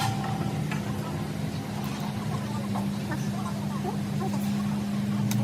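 A steady, low mechanical drone at one unchanging pitch, with faint voices in the background and a sharp click near the end.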